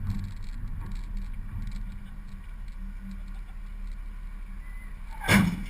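Vehicle engine and road rumble, steady and low, with a single loud thump about five seconds in.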